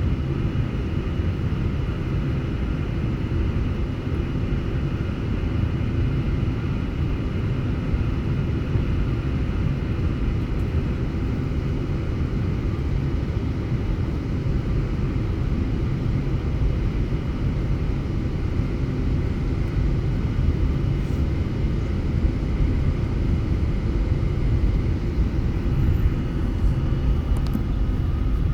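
Steady low rumble of a Boeing 747-8 airliner with a few faint, steady high tones above it, unchanging throughout.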